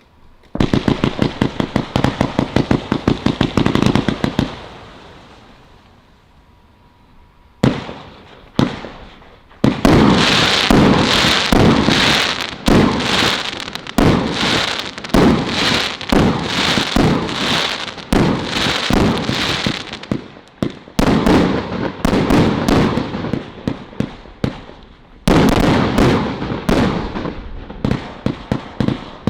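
Celtic 'Hasta La Vista Baby' multi-shot firework cake firing. A rapid string of shots runs for the first four seconds and then fades. Two single shots follow, then dense volleys of launches and bursts from about ten seconds in.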